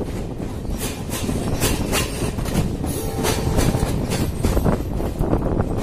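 Passenger train coach running at speed, with a steady rumble and irregular clickety-clack of the wheels over rail joints, heard from the coach's open doorway.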